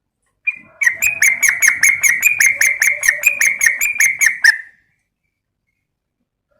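Yellow-vented bulbul (trucukan) calling: a rapid, even chatter of short harsh notes, about five a second, lasting some four seconds and then stopping. It is the female's call used to draw in males.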